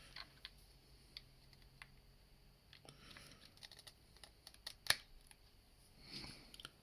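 Faint clicks and light handling of a small plastic cordless hair dryer and its USB charging cable as the cable is plugged in, with one sharper click about five seconds in.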